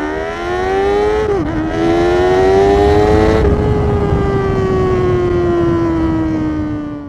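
Motorcycle engine accelerating hard, its pitch climbing, with a quick dip at a gear change about a second in and a second climb. From about three and a half seconds in the pitch falls slowly as the throttle eases off.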